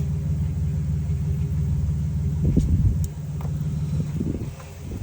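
A car engine idling steadily with a low, even rumble, weakening about three seconds in. A few light knocks sound around the same time.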